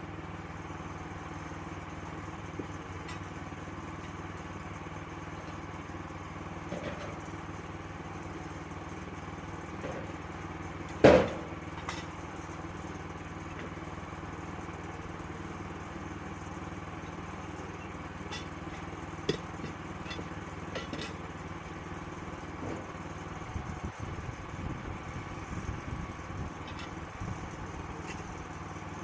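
Sawmill engine running at a steady speed, with scattered light knocks and one loud bang about eleven seconds in.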